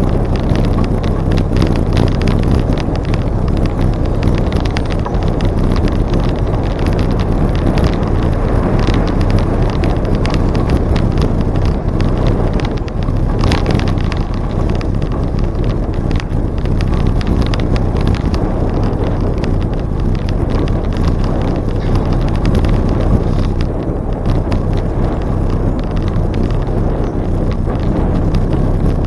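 Riding a bicycle along a trail: steady wind rush on the microphone and tyre rumble, with many small clicks and rattles.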